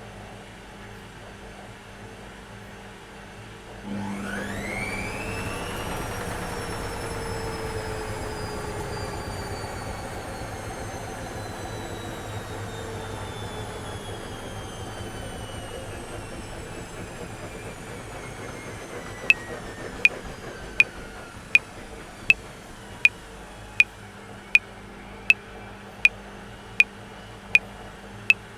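Washing machine running with a steady hum. About four seconds in, its motor whine rises sharply and then slowly falls away over some fifteen seconds. From about two-thirds through, a metronome clicks steadily at 80 beats a minute.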